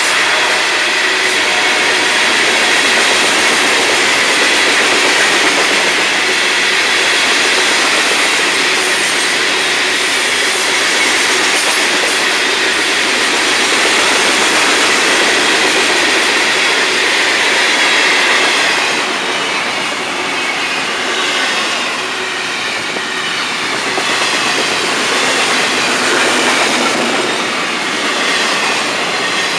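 Freight cars of a long Florida East Coast Railway train rolling past, a steady loud din of steel wheels on rail with clickety-clack and wheel squeal.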